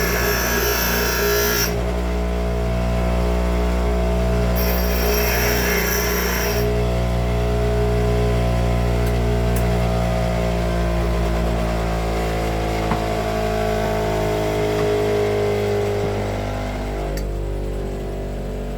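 Bench grinder running steadily, with two short stretches of gritty grinding contact: one near the start and one about five seconds in. Later a tone in the motor sound slowly sinks in pitch.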